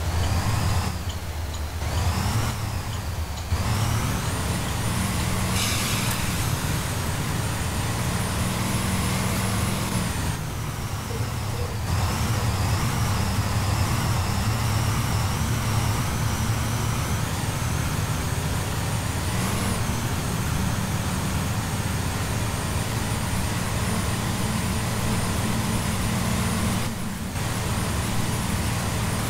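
2016 Blue Bird Vision school bus driving, its engine running steadily with the pitch dropping and rising again several times as it changes gear. A thin high whine runs over the engine.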